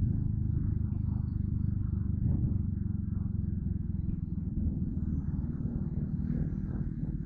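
Yamaha Crypton R underbone motorcycle engine running steadily while riding, with a low, even drone and the level easing off slightly toward the end.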